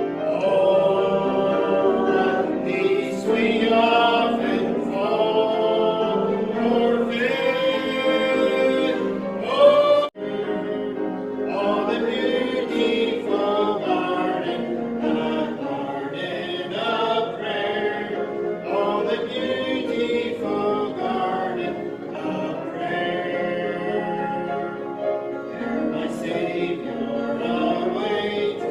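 A church congregation singing together, many voices at once, with an abrupt break in the sound about ten seconds in.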